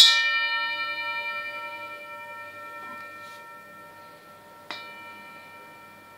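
An antique relic struck to test its sound: a sharp tap, then a clear ring of several steady tones that slowly fades. A lighter second tap near the end sets the same tones ringing again.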